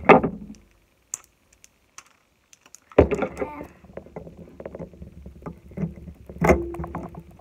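Plastic Mini Brands capsule being handled and pried at: irregular clicks, knocks and scraping. The sound drops to near silence soon after the start, then a sudden knock about three seconds in and another near the end.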